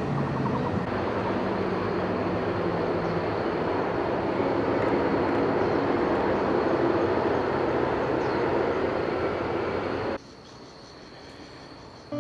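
Taiwan Railway train passing close by: a loud, steady rumble of wheels and motors with a low hum, which cuts off suddenly about ten seconds in, leaving a much quieter background with a thin steady high tone.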